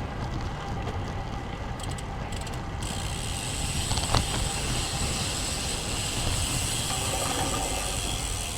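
Strong headwind rumbling on the camera microphone as a road bike rides along, with tyre and road noise under it and a sharp click about four seconds in.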